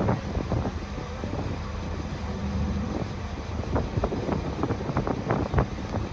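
Low steady rumble of a vehicle under way, with wind noise on the microphone and many short knocks and clicks scattered through it.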